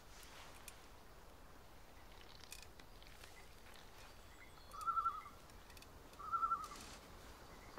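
A bird gives two short, quickly warbling trilled calls, about a second and a half apart, over faint outdoor ambience with a few tiny chirps.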